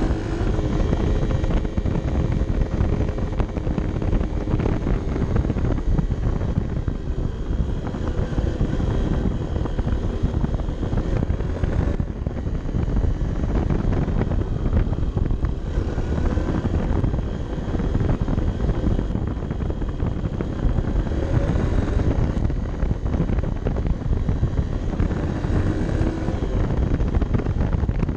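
Honda CB 125 F's single-cylinder four-stroke engine running under way, mixed with heavy wind buffeting on the action-camera microphone.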